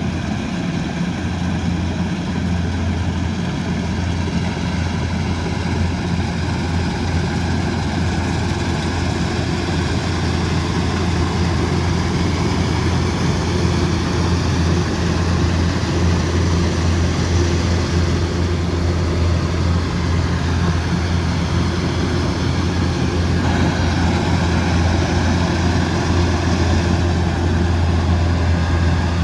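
Combine harvester's diesel engine running steadily at working speed: a constant low drone with machinery noise over it.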